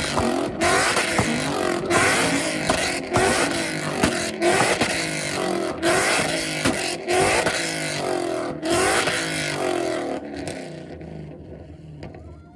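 Street cars with loud exhausts revving hard together, the engine pitch climbing again and again with short breaks between revs. The revving dies down near the end.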